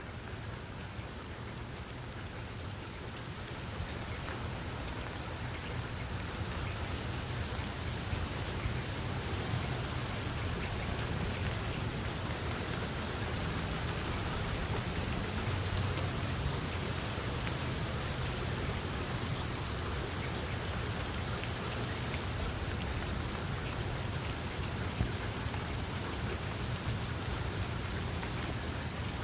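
Steady rain falling, growing a little heavier over the first few seconds, with a low rumble underneath.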